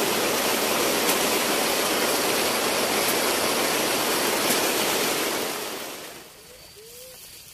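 Heavy rain pouring down in a loud, steady hiss. It fades away about six seconds in, leaving a much quieter background.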